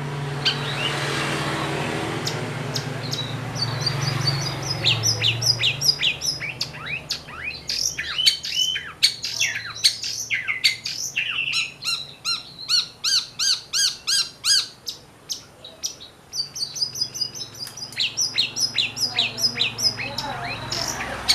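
Long-tailed shrike (cendet) singing: fast runs of sharp, chattering high notes repeated several times a second, starting about four seconds in, breaking off briefly near sixteen seconds and then resuming. A steady low hum and hiss fill the first few seconds.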